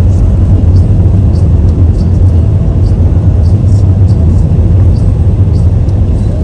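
Steady low rumble of a car driving on a cleared road, heard from inside the cabin, with faint light ticks about twice a second.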